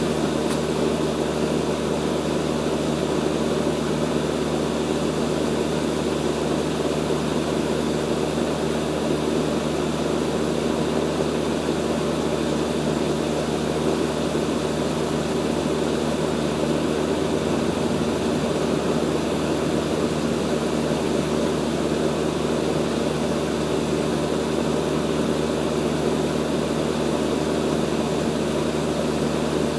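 Steady hum of a running central air-conditioner outdoor unit (the Bryant condenser), compressor and fan drone holding one level throughout.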